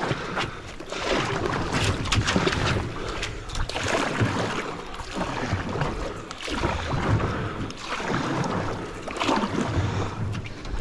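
Water sloshing and splashing around a small boat on a dam, with irregular knocks and rustles from inside the boat.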